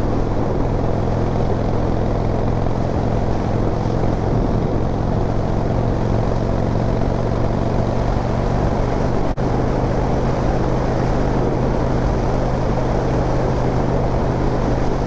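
Harley-Davidson V-twin engine running steadily at cruising speed under way, with road noise.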